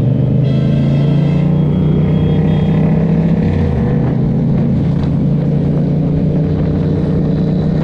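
Motorcycle engine running under way at steady revs, the pitch dropping about three and a half seconds in.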